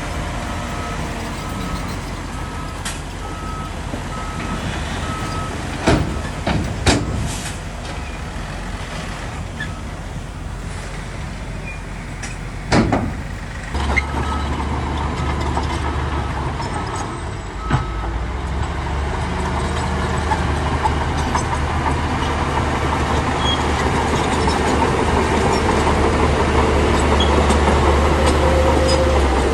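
Heavy diesel earthmoving machinery running, with a reversing alarm beeping steadily for the first half and briefly again after the middle. There are a few sharp clanks before the middle. From about halfway the engine runs louder and heavier, building toward the end as it works under load.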